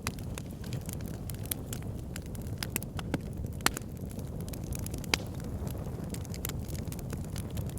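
Wood fire burning in an outdoor fire pit: a steady low rumble of flames with frequent irregular crackles and a few louder sharp pops.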